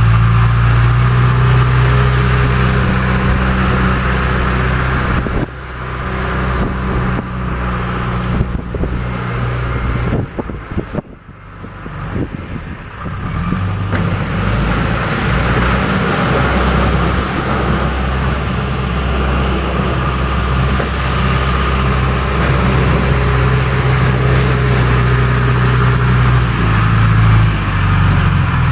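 John Deere 310E backhoe loader's diesel engine running steadily while the machine works ice. The sound drops away for several seconds near the middle, then comes back up to a steady run.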